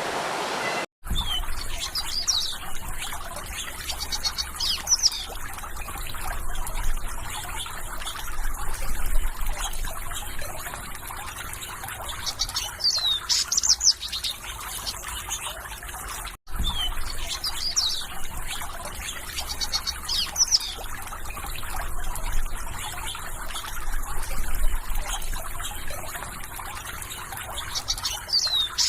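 Small birds chirping with quick, falling notes over the steady trickle of running water. The sound drops out for a moment about a second in and again just past halfway, and the same birdsong-and-water loop starts over after each gap.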